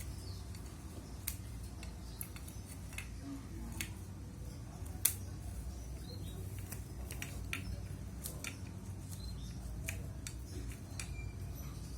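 Mealworms being cut into small pieces in a small plastic cup: irregular sharp snips and clicks, the loudest about five seconds in.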